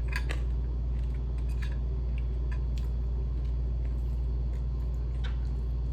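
Chewing crisp fried chicken pieces close to the microphone: a few short, irregular crunches over a steady low hum.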